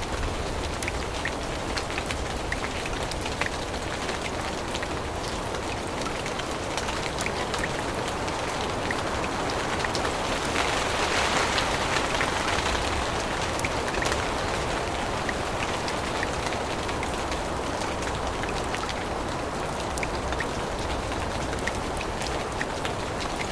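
Steady rain falling through a forest canopy, with many separate drops ticking on leaves and surfaces. A fuller rush of rain swells for a few seconds around the middle, then eases back.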